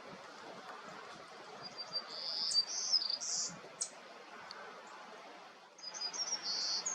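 Golden-cheeked warbler singing: two short, high-pitched buzzy song phrases, the first about two seconds in and the second near the end.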